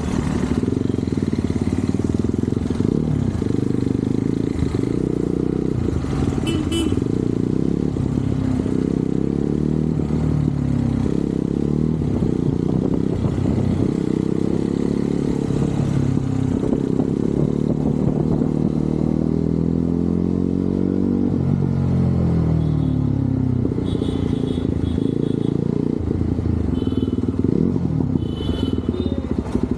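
Motorcycle engine running under way, its pitch rising and falling with the throttle: a long climb in revs through the middle, then a drop. A few short high-pitched beeps sound near the start and toward the end.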